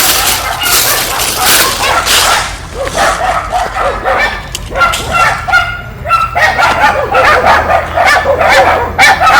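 Several dogs barking and yelping in short, repeated high calls, with a rushing noise in the first two seconds.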